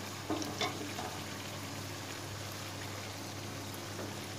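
Mutton and tomatoes cooking in oil and meat juices in a pan: a steady, quiet bubbling hiss over a low hum, with two short ticks about half a second in.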